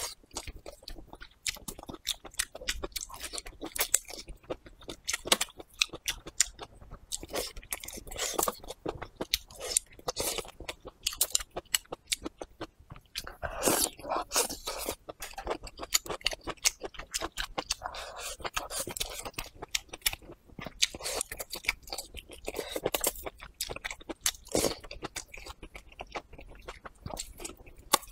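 Close-miked mouth sounds of a person biting and chewing braised pig tail: a dense, continuous run of small clicks and crackles, a little louder around the middle and again about two-thirds through.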